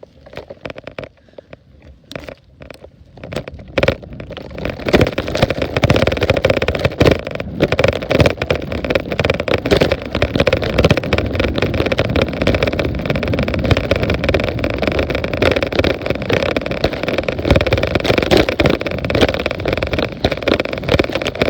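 Wind rushing and buffeting over the microphone of an iPad taped to a bicycle's handlebars as the bike gets moving, with knocks and rattles from the bike. There are a few separate knocks at first, then from about four seconds in a steady, loud rushing noise.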